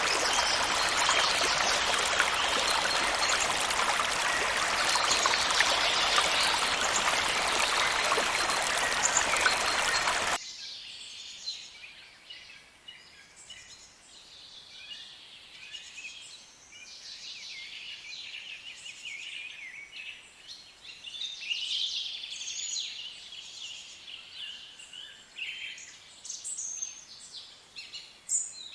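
Steady rush of a flowing stream that cuts off abruptly about ten seconds in, giving way to a quieter chorus of birds chirping and singing in many short, high calls.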